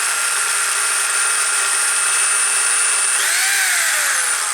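Electric drill spinning a motorcycle's gear-drive mechanical tachometer, its motor whining at a steady pitch. About three seconds in it speeds up sharply, then the pitch glides down as the trigger is released and it winds down near the end.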